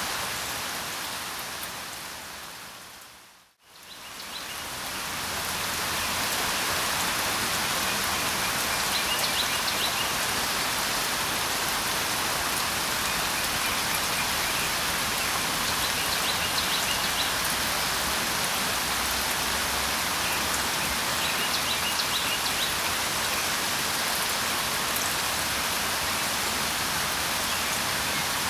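Steady rain falling, dipping briefly to silence about three seconds in and swelling back up, as at the seam of a looped recording. Faint bird chirps come through the rain three times.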